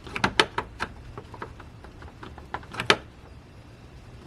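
Irregular sharp clicks and knocks of hands and tools working the retaining pin and clip of an engine's electric cooling fan, the loudest a little after the start and again near three seconds in.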